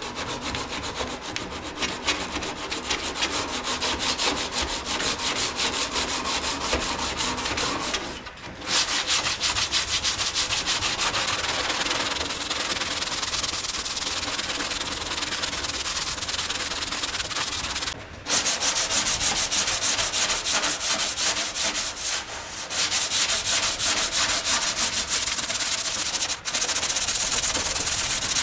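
Sandpaper on a sanding block rubbing over cured body filler on a car's front wing: continuous scratchy sanding, with a few brief pauses between runs.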